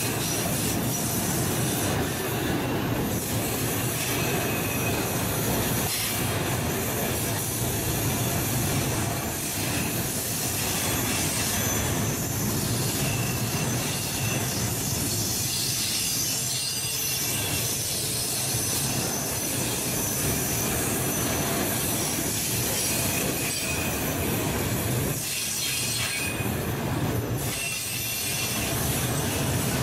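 Freight train wagons rolling past: a steady rumble of wheels on the rails, with high-pitched wheel squeal coming and going over it.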